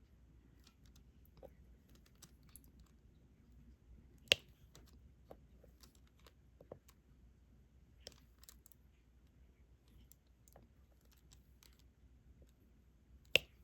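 Faint small clicks and taps of a diamond-painting drill pen picking up resin drills and pressing them onto the adhesive canvas. Two much sharper clicks stand out, about four seconds in and near the end.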